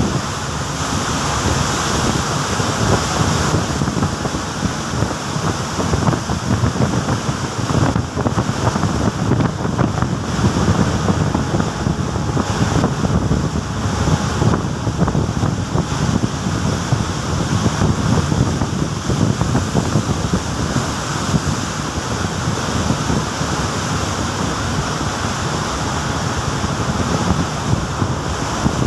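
Rough open-sea waves rushing and surging continuously, with wind blowing across the microphone.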